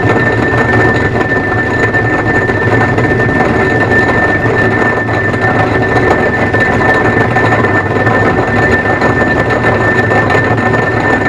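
Turnell & Odell metalworking lathe running steadily under power, its drive noise carrying a constant high whine.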